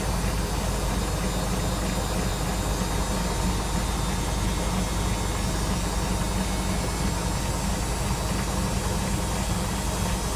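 Electra AWF683 front-loading washing machine in its final spin, the drum held steadily at high speed of about 800 rpm with a constant low hum and whirr. The load has balanced well enough to reach full spin speed, instead of the usual 200–300 rpm.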